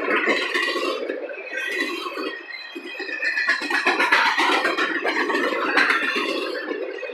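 Intermodal freight cars rolling past on steel wheels, a continuous clatter with some high-pitched wheel squeal.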